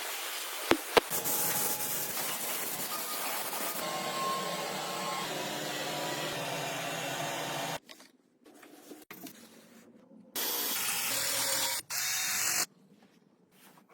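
A workshop tool running steadily, with two sharp clicks about a second in. It stops short of eight seconds, then runs again in two brief spells near the end.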